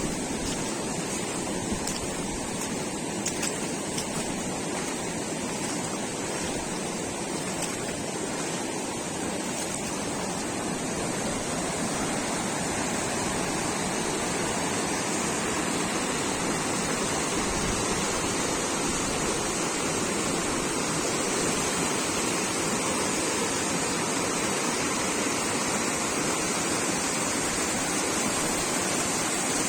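Steady rush of fast-flowing water from a rain-swollen river.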